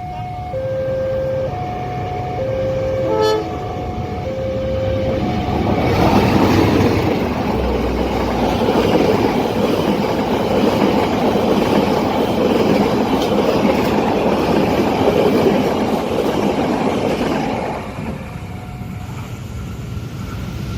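A railway level-crossing warning alarm sounds two alternating tones, then about six seconds in a train passes with a loud, steady rush of wheels on rails lasting about twelve seconds. The rush dies away near the end.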